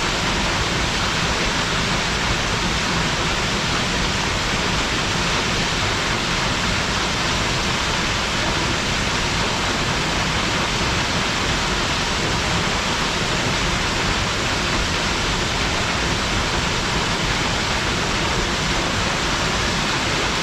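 Waterfall pouring steadily: an even, unbroken rush of falling water strongest in the upper range.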